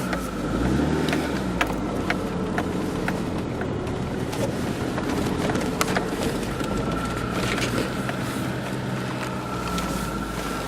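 A car engine running, its pitch rising and falling a few times, with scattered light clicks.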